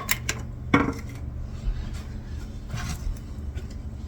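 Kitchen cookware and utensils clinking and knocking a few times as a dish is put together, the loudest knock a little under a second in.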